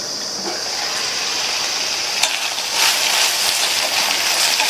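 Broad beans sizzling and steaming in a covered stainless steel kadhai. There is a light click about two seconds in, and the sizzling grows louder as the lid comes off.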